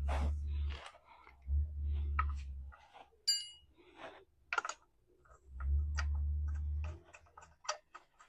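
Scattered sharp metallic clicks and light knocks of wheel nuts and a wheel spanner as a car's front wheel is refitted, with several dull low rumbles about a second long from handling in between.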